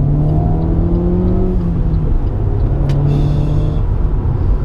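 Alfa Romeo Giulietta QV's 1750 TBi turbocharged four-cylinder running through a Supersprint exhaust under way. The engine note climbs slowly, eases off about two seconds in, then picks up and holds. There is a single sharp click about three seconds in.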